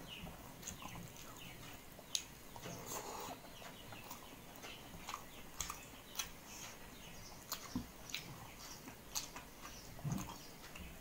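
Close-miked chewing and lip-smacking of a person eating a rice meal: irregular wet clicks and smacks.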